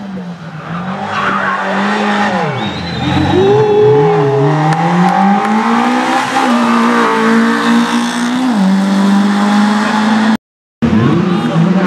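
Rally car engine revving hard through gear changes, its pitch dipping as it slows and climbing again as it accelerates, with tyres squealing. The sound cuts out briefly near the end, then another engine is heard.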